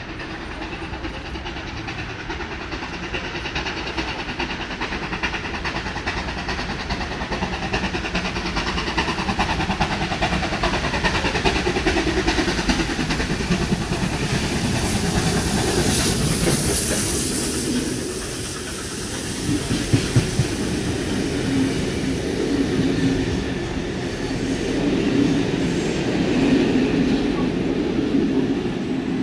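Passenger train running through the station, its wheels clattering on the rails and growing louder over the first half. A short high hiss comes about halfway, then a few sharp knocks.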